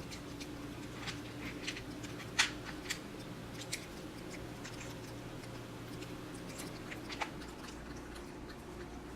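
Scattered small clicks and taps, the sharpest about two and a half seconds in, over a steady low hum of room tone.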